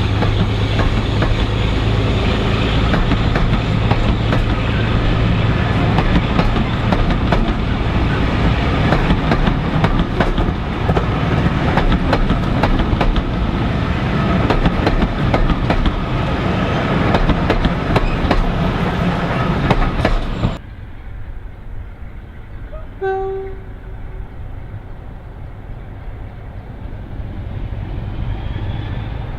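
Heritage diesel locomotive running with a heavy engine note and wheels clacking over rail joints. This cuts off abruptly about two-thirds of the way through to a quieter engine rumble, in which a single short horn blast sounds.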